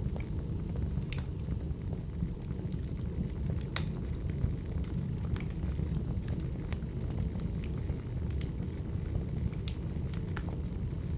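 Firewood burning: a steady low rumble of the fire with irregular sharp crackles and pops about every second, one louder pop just under four seconds in.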